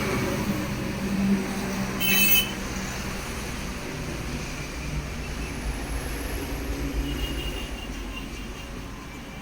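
Steady traffic rumble, with a short shrill sound about two seconds in.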